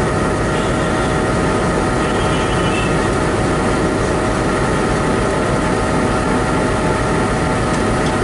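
Locomotive running steadily: an even machinery hum with several steady whining tones over it.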